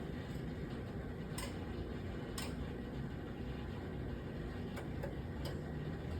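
Steady low hum of equipment with a few faint, sharp ticks, as the water heater's control is being reset.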